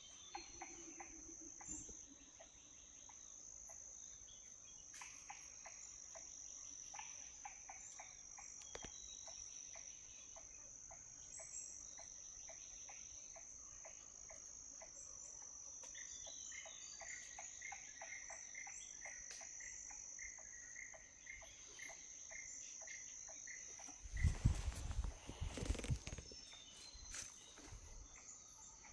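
Steady chorus of crickets and other insects, a continuous high buzzing, with faint short repeated calls over it and a row of evenly spaced chirps, about two a second, in the middle. Near the end comes a brief loud burst of low rumbling noise.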